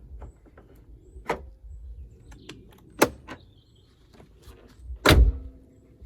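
Work on a car: a run of clicks and knocks, with a sharp knock about three seconds in and a heavy thump about five seconds in.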